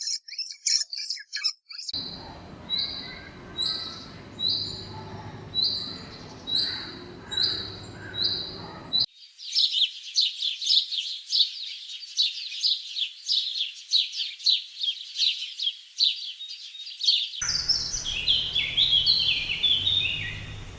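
Birds chirping and calling in several spliced clips with abrupt cuts. First come a call repeated about once a second over a low hum, then a dense run of rapid chirps, then quick falling chirps near the end.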